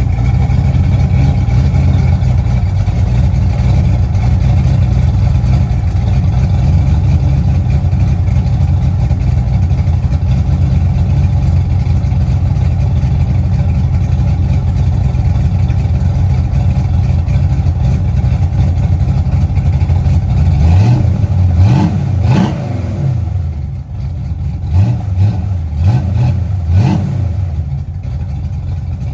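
LS V8 engine idling steadily, then revved in several quick throttle blips, the pitch rising and falling, during the last third.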